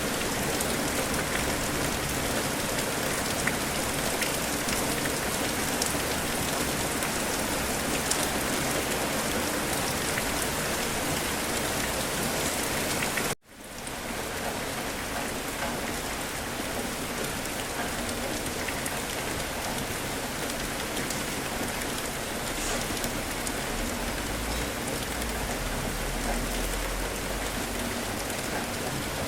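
Steady rain falling on surfaces, a dense even hiss of drops. About halfway through it cuts out abruptly for a split second and fades back in over about a second, and a low rumble rises underneath in the last several seconds.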